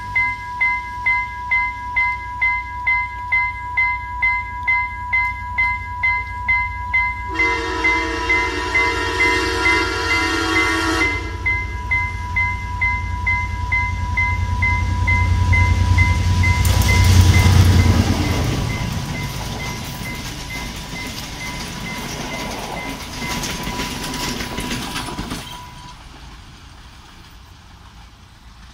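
A level-crossing warning bell rings in a rapid, even rhythm as a diesel-hauled express train approaches. About a third of the way in, the locomotive sounds one long horn blast of several seconds. The train's rumble then swells to its loudest as it passes and fades near the end.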